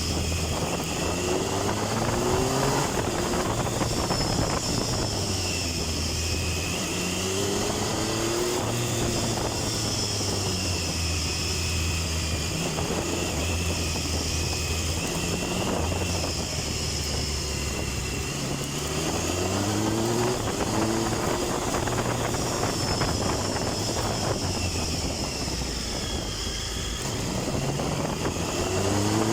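Triumph Tiger 1050's inline-triple engine under way, its pitch rising several times as it is accelerated hard and settling between pulls, over steady wind noise.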